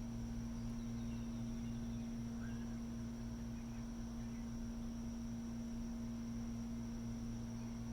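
Steady low hum of distant machinery with a thin, steady high tone over it, and a few faint bird chirps about two seconds in.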